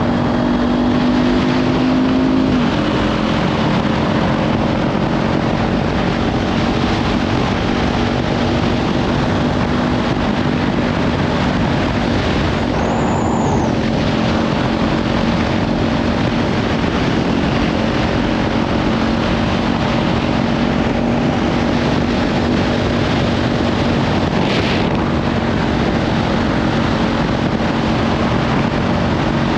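Kawasaki Ninja 500 parallel-twin with a Leovince slip-on exhaust, cruising at steady revs under heavy wind noise on the microphone. The engine note steps down about two and a half seconds in, then holds steady.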